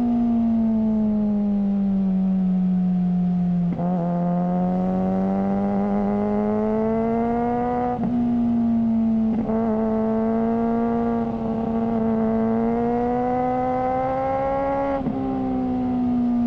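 Suzuki GSR600's inline-four engine through a GPR Ghost exhaust, running under way. Its steady note climbs and eases in pitch and is broken by quick gear changes about four times.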